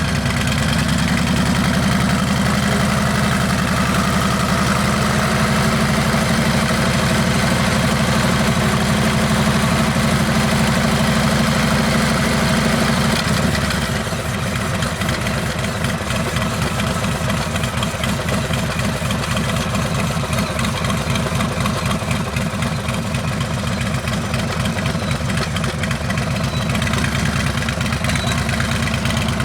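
Harley-Davidson Heritage Classic's Milwaukee-Eight V-twin running through a Rinehart exhaust, a steady loud note for the first half; about halfway through it drops slightly and settles into an uneven, pulsing low beat.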